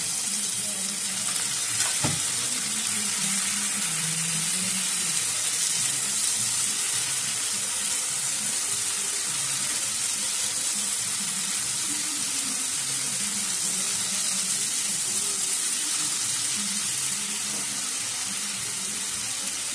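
Wet spice masala sizzling steadily in hot oil in a nonstick kadai with diced potatoes and tomatoes, stirred with a silicone spatula. A single knock sounds about two seconds in.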